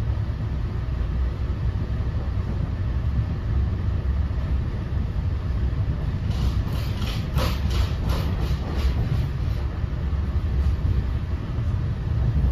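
NJ Transit Multilevel coach rolling at speed, heard from inside the car: a steady low rumble of wheels on rail, with a run of quick clicks and clatter from about six to nine and a half seconds in.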